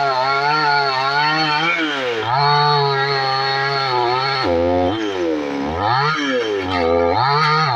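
Two-stroke chainsaw engine running loudly. Its pitch holds fairly steady at first, then dips and climbs back three or four times in the second half as the throttle is blipped.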